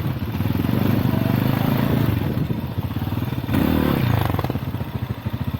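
Lifan Xpect dual-sport motorcycle engine running under changing throttle while riding off-road, with a short rise in revs about three and a half seconds in that then drops back.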